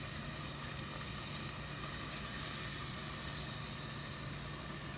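Ground chicken cooking in a frying pan: a steady hiss of sizzling over a constant low hum.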